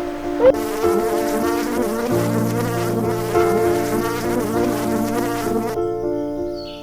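Insect buzzing, with a low steady hum joining about two seconds in, over soft background music.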